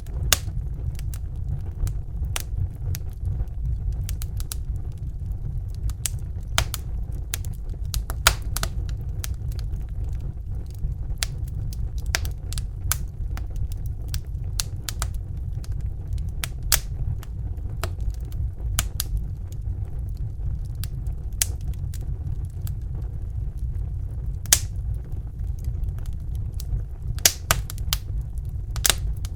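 Crackling fire: irregular sharp pops and snaps, a few seconds apart and sometimes in quick clusters, over a steady low rumble.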